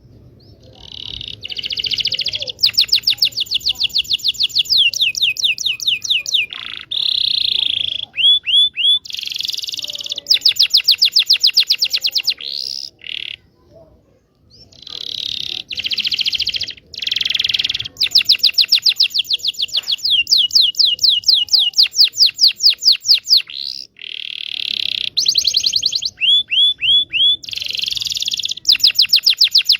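Domestic canary singing a long, loud song of fast rolling trills and rapidly repeated notes, mixed with buzzy held notes and short falling whistles, pausing briefly twice. This is a tutor song used to coax young or silent canaries into singing.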